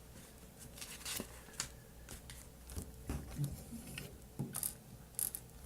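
Plastic LEGO bricks being handled and fitted, giving faint, irregular light clicks and rattles.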